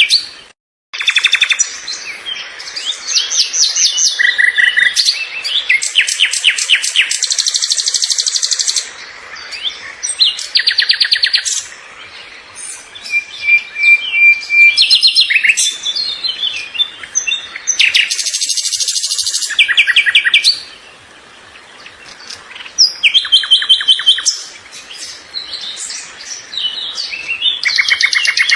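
Birds chirping and trilling, with several fast runs of repeated high notes overlapping one another. The sound drops out completely for a moment just under a second in.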